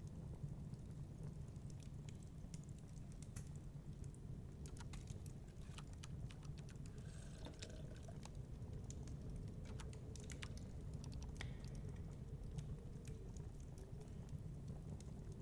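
Wood fire crackling in a fireplace, with irregular sharp pops, over a low steady rumble of storm wind.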